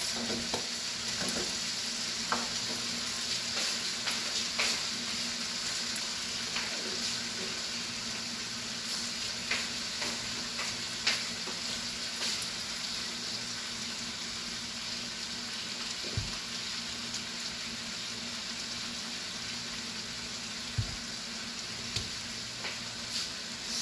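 Chicken and broccoli stir-fry sizzling steadily in a frying pan just after a splash of water and soy sauce went in, with scattered small pops.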